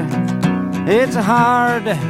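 Folk song: a singer draws out a long note in the refrain over strummed acoustic guitar.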